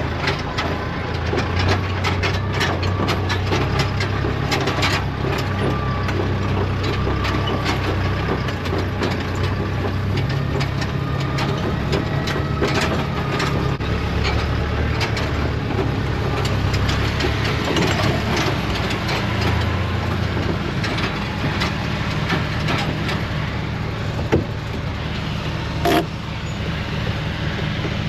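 International tractor engine running steadily under load, pulling a mowing machine through the grass, with frequent light rattling clicks. Two sharp knocks come near the end.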